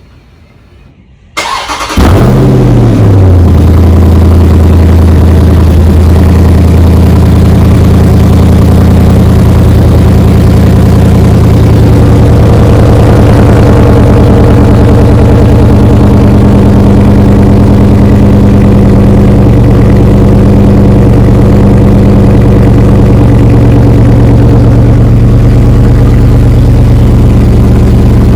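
Dodge Charger Scat Pack's 6.4-litre HEMI V8 cold-starting through its stock exhaust: a short crank about a second and a half in, then it fires with a loud flare that drops within a second or two into a steady, loud idle.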